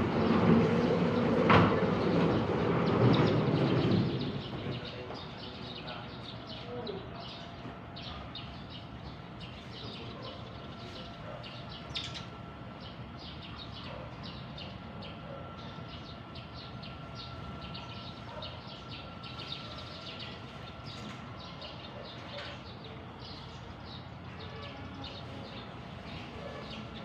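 Many small birds chirping in short, quick notes over a steady background. For the first four seconds a louder low rumble covers them, then fades.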